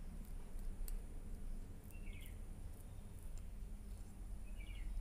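Quiet room noise with a steady low hum, and a short high chirp of quick falling notes, like a small bird, heard twice: once about two seconds in and again near the end.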